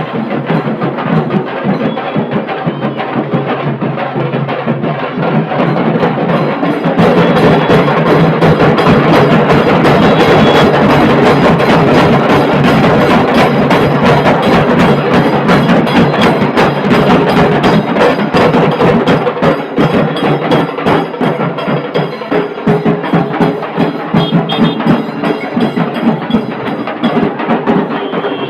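Dhol-tasha drumming: tasha drums beaten in fast, dense rolls over the deeper dhol, loud throughout and getting louder about seven seconds in.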